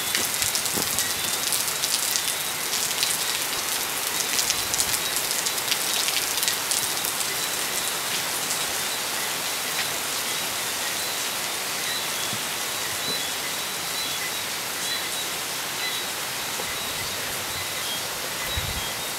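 Heavy tropical rain pouring down onto and around a gazebo, a steady rush full of close drop impacts, a little louder in the first half. Whistling frogs chirp faintly and repeatedly underneath.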